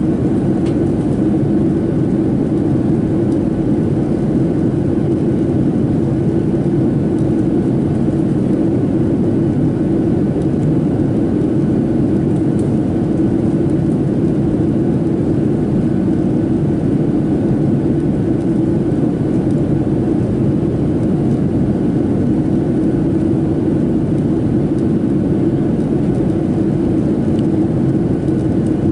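Steady cabin noise of a Boeing 737-700 in flight, a constant low roar of its CFM56 turbofans and the air rushing past the fuselage, heard from a seat behind the wing. It holds steady throughout, as on the descent toward landing.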